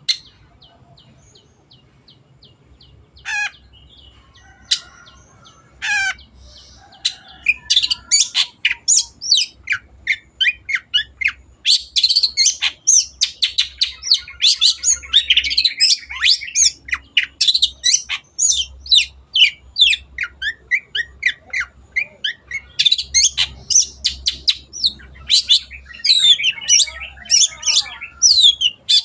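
Long-tailed shrike (cendet) singing. It opens with a quick rattle and a few scattered sharp calls, then breaks into a rapid, nearly continuous chattering song of varied sharp notes from about seven seconds in.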